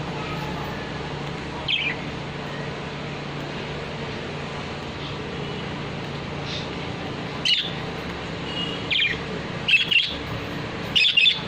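Parrot calling: short, sharp high-pitched calls, one about two seconds in and several in quick succession near the end, over a steady background hum.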